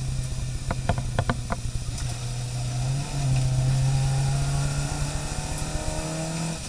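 Racing car engine running hard, its note stepping up about three seconds in and dropping back shortly before the end. A few sharp clicks or knocks come in the first second and a half.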